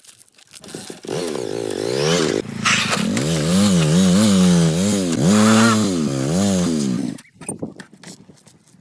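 A small engine revving up and down repeatedly, its pitch rising and falling several times, starting about a second in and cutting off suddenly about seven seconds in.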